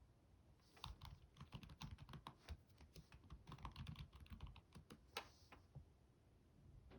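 Faint computer-keyboard typing, a quick run of key clicks starting about a second in and stopping a little before the end.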